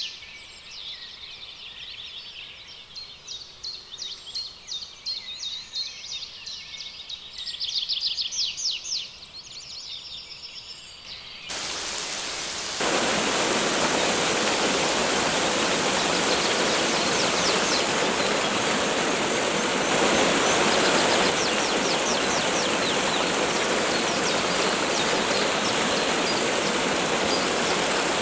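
Rapid trilling bird calls repeat for about the first ten seconds. Then a loud, steady rush of falling water cuts in suddenly, with faint bird calls still audible above it.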